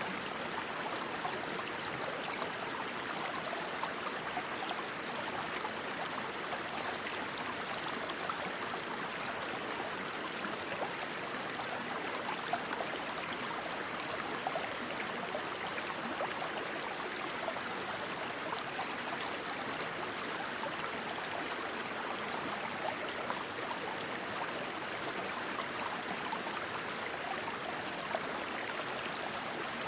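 Rushing stream water flowing steadily, with short high chirps scattered over it and two brief buzzy trills, about 7 and 22 seconds in.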